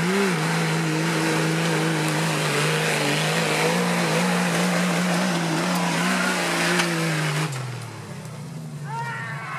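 Off-road 4x4's engine revved hard and held high for about seven seconds, with a loud rushing noise over it, as it struggles on a steep off-road climb it cannot get up. About seven and a half seconds in, the revs drop back to idle.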